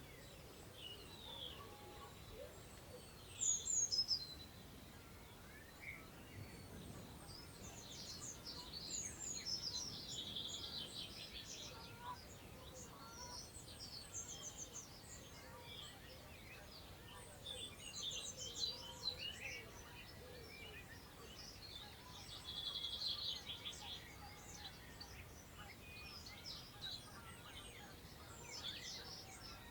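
Several songbirds singing and calling, with short bright phrases coming one after another and overlapping, over a faint background hiss of wind in long grass. A loud brief phrase about four seconds in, and busier stretches of song around ten seconds and twenty-three seconds in.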